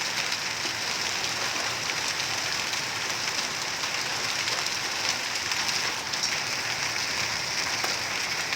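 Hailstorm: a steady hiss of heavy rain, with scattered sharp ticks of hailstones striking.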